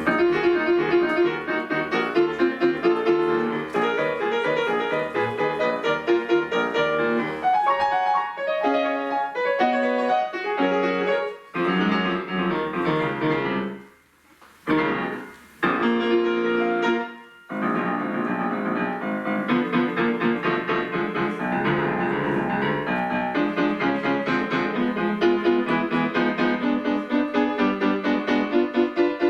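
Solo piano piece, played with quick runs of notes, breaking off for two short pauses about halfway through.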